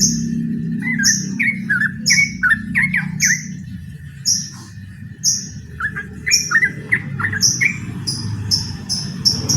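Yellow-vented bulbul singing in short repeated phrases, with a high chirp repeating about twice a second that speeds up near the end, over a steady low hum.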